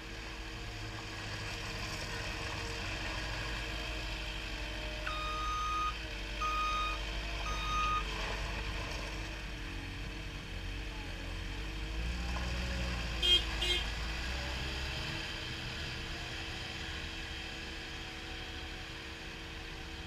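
CAT 242D skid steer loader's diesel engine running steadily, with its backup alarm beeping three times near the start of the middle stretch. A little later come two short, sharp sounds close together, the loudest moment.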